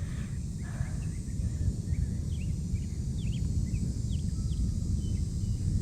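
Low, steady rumble of a rocket launch heard from several miles away, with small birds chirping high above it.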